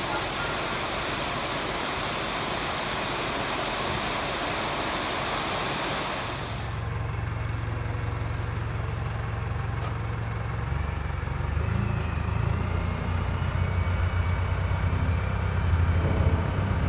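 Steady hiss of heavy rain with an excavator's diesel engine running under it. About seven seconds in it changes abruptly to the engine alone, a low drone that grows louder a couple of times as it revs.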